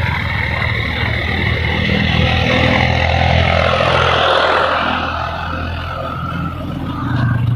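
Hero Glamour single-cylinder motorcycle engine running while riding, with a steady note that eases off about halfway and picks up again near the end.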